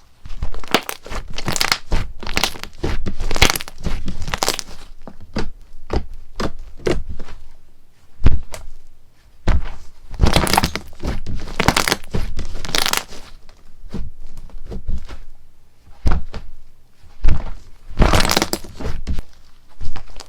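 Slime being pressed and worked by hand, making an irregular run of short crackles and taps in clusters, the loudest about halfway through and near the end.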